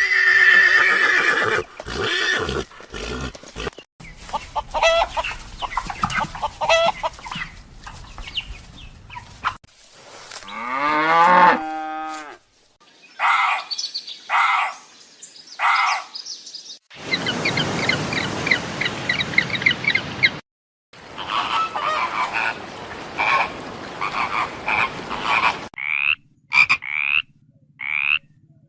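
Calls of several different animals in short clips cut abruptly one after another, each clip a different kind of call. Near the end comes a short call repeated four times.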